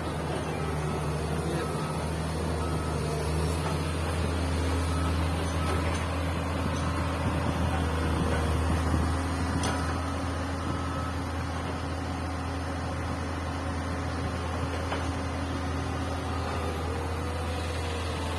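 Komatsu PC200 excavator's diesel engine running with a steady low drone that swells for a few seconds in the middle. Faint short beeps repeat in the first few seconds.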